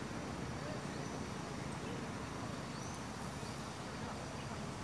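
Steady outdoor background noise with short, high bird chirps every second or so.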